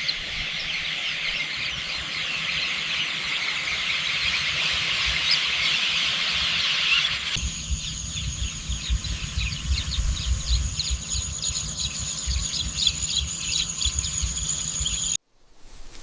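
Countryside ambience of birds chirping over a dense high chatter. About seven seconds in it changes abruptly to scattered chirps over a thin, steady, high-pitched whine. It cuts out suddenly near the end.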